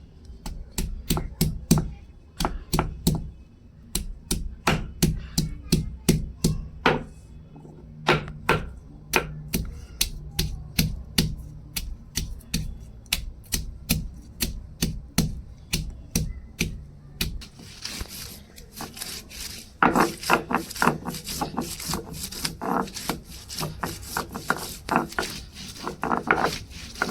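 Knife chopping on a cutting board in steady, regular strokes, about two to three a second. About two-thirds of the way in, the chopping turns faster and scratchier.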